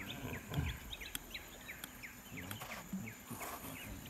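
Small birds chirping: a steady run of short, high, falling chirps, several a second, with a brief rush of hiss about three and a half seconds in.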